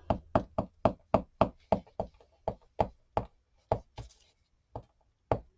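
A rapid series of light knocks or taps on a craft tabletop, about three a second, thinning out to a few spaced taps near the end.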